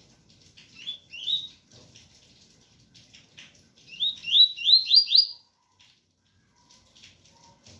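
Double-collared seedeater (coleiro) singing its 'tui-tui' song: rising whistled notes, two about a second in, then a louder run of five quick upslurred notes about four seconds in. Faint rain noise runs underneath.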